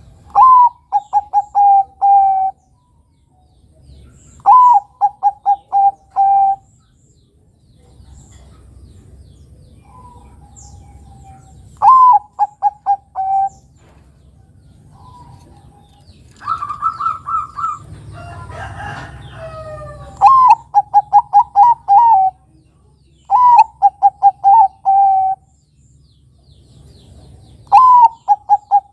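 Zebra dove (perkutut, Bangkok type) cooing: repeated phrases, each a sharp higher opening note followed by four or five quick, evenly spaced lower coos, six phrases in all a few seconds apart. Around the middle a different held higher call and a brief noisier flutter of sound break in.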